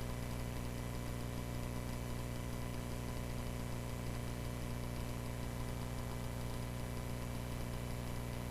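Cessna 140A's engine running steadily: an even, low drone that holds the same pitch throughout.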